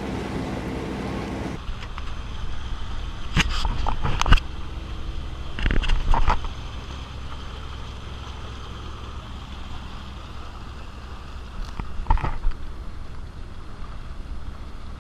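Steady low running noise of a boat underway, with a few short knocks or rattles: a cluster about three to four seconds in, another about six seconds in, and one near twelve seconds.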